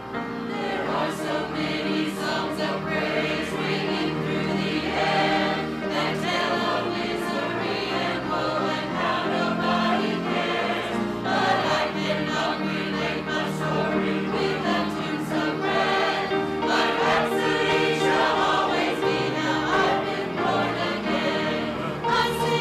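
A choir singing, many voices together with musical accompaniment.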